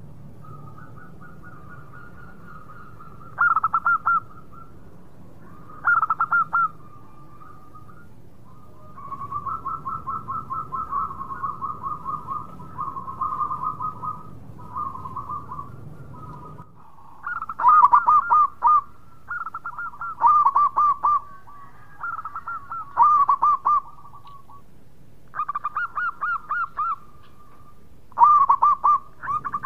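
Zebra dove (perkutut) cooing its song: short phrases of rapid, pulsed coos repeated every few seconds, with a longer, softer run of pulsed notes in the middle. A low background hum stops about two-thirds of the way through.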